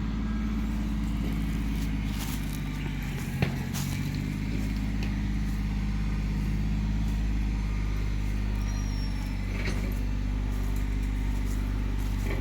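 Yanmar compact tractor's diesel engine running steadily under work, with a few sharp knocks and clanks along the way.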